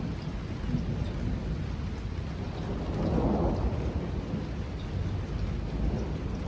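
Heavy rain falling steadily, with a roll of thunder rumbling up about three seconds in and fading away over the next couple of seconds.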